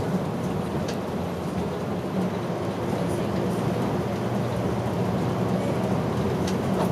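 Route bus running along the road, heard from inside the cabin: a steady low engine hum and road rumble, with a few faint rattles.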